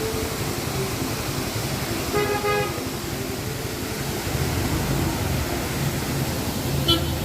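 Steady rush of falling water with road traffic. A vehicle horn toots once, about two seconds in, and a low engine rumble builds from about four seconds. A short high beep sounds near the end.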